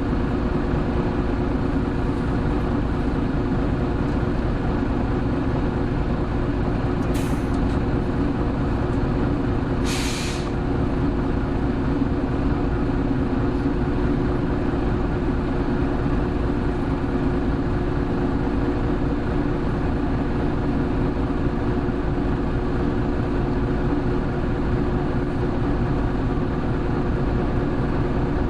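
Hino Blue Ribbon City Hybrid (BJG-HU8JLFP) city bus running steadily with its diesel engine under way. Two short air hisses, the second longer, come about seven and ten seconds in.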